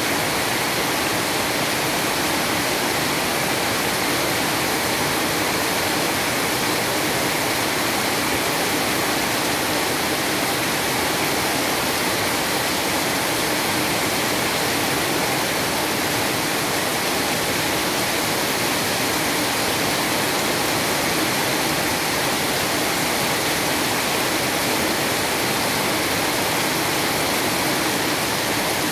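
Heavy rain pouring down steadily on a paved street, a dense, even hiss with no breaks.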